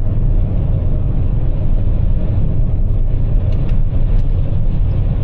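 Steady low road rumble heard inside the cabin of a Toyota RAV4 Prime driving at speed, mostly tire noise from its Blizzak snow tires on the winter road.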